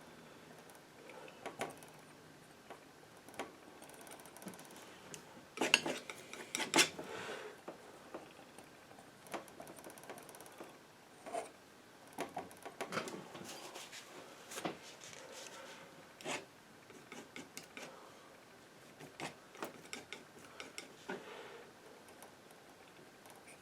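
Metal palette knife scraping and clicking as it works paint, in scattered short strokes, the loudest cluster about six to seven seconds in.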